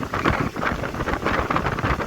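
Passenger train in motion: wind buffeting the microphone over the running noise of the train, with an uneven, gusty rush.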